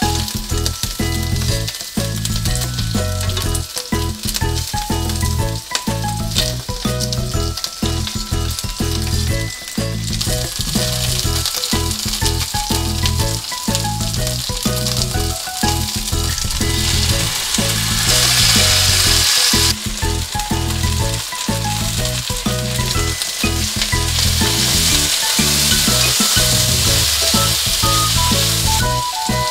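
Chicken thigh pieces sizzling in oil in a frying pan while chopsticks turn them, then stir-fried together with lotus root, carrot, onion and green beans. The sizzling gets louder about a third of the way in and is loudest a little past the middle.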